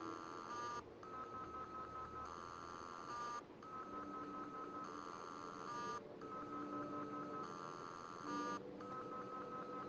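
A Western Digital drive making a strange repeating electronic tone. Each cycle is a steady beep followed by a brief warbling flutter, repeating about every second and three-quarters.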